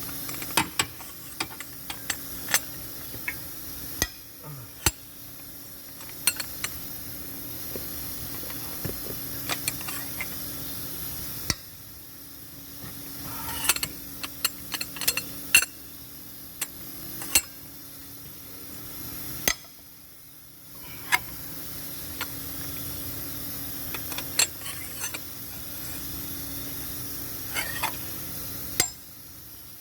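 Scattered metal clinks and taps of hand tools and engine parts being handled during engine reassembly, irregular and sharp, over a steady low background hum.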